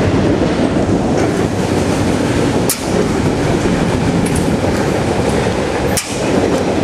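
Autorack freight train cars rolling past, a loud, steady rumble and rattle of wheels on rail. The sound dips briefly twice, about three seconds apart, with a short high click each time.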